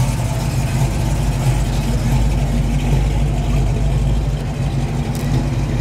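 1955 Chevrolet's engine running steadily as the car rolls past at low speed, a deep even rumble.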